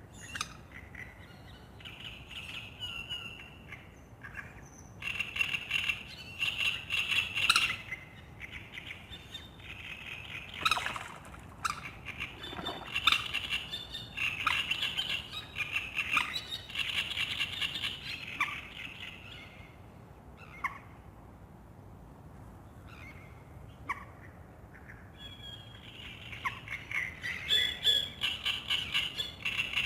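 Songbirds singing at dawn in short, repeated chirping phrases, with a quieter spell in the latter half. Among them a wild duck is heard on the water, squawking and taking off.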